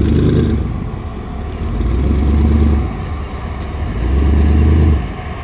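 A car engine running and being revved in three swells, dropping back to a lower speed in between.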